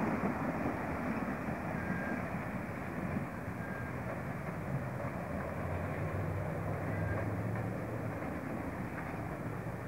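A double-deck electric suburban train rumbling past on its wheels and rails, then slowly fading as it moves away.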